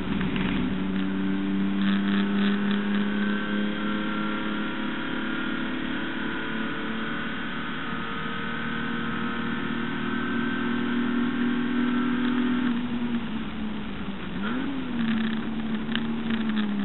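HQ Holden race car's six-cylinder engine heard onboard at high revs, its pitch climbing slowly down a straight. About thirteen seconds in it drops off, dips and rises again in a quick lift-and-shift, with some clatter near the start and end.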